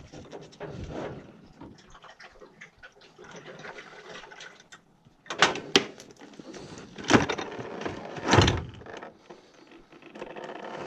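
Hands handling a plastic condensate pump as it is pulled out: scattered clicks and rustling with a few loud clunks between about five and eight and a half seconds in. A steady hum with a tone sets in near the end.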